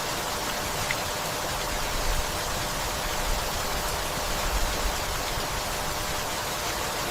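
Steady, gentle rainfall, an even hiss of rain falling on leaves and a wooden house, with a few brief low rumbles in the middle.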